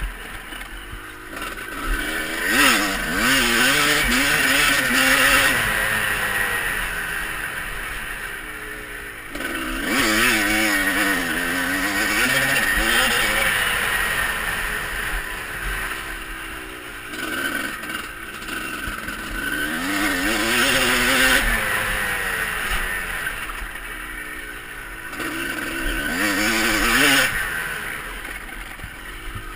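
Motocross dirt bike engines revving up and down through the gears, swelling louder several times as the bikes ride the track.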